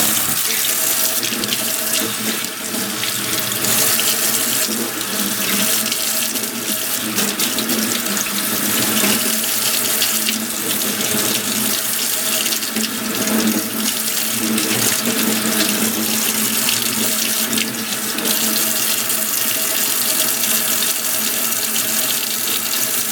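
Kitchen faucet running steadily into a sink while deveined raw shrimp are rinsed under the stream.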